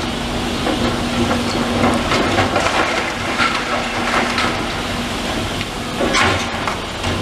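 Demolition machinery at work: a diesel engine running steadily, with bursts of crunching and clattering from broken debris a couple of seconds in and again near the end.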